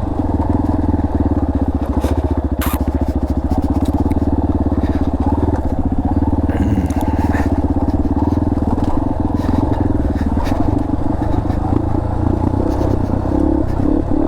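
Dirt bike engine running steadily while the bike descends a rocky trail, with scattered sharp knocks and clatter from rocks and the bike, the loudest about two and a half seconds in.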